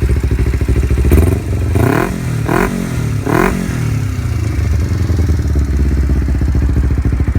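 2009 Kawasaki Ninja 250R's 249cc two-cylinder engine running through a Yoshimura carbon fiber aftermarket exhaust. It idles, is revved in several quick throttle blips between about one and three and a half seconds in, then settles back to a steady idle.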